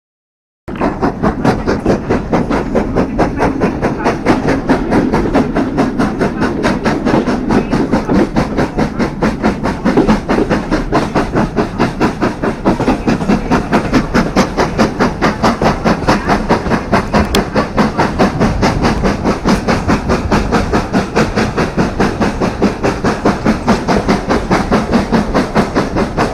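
Steam locomotive working under way, its exhaust beating fast and evenly over a steady hiss and rumble. It starts abruptly about a second in.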